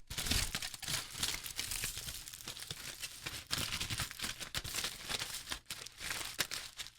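Irregular crinkling and crackling close to the microphone: a dense run of small clicks that thins out near the end.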